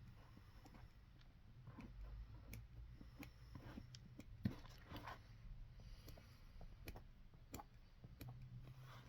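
Faint, scattered clicks and light taps of hand work on a boot at the cobbler's bench, with one sharper knock about halfway through, over a faint low hum.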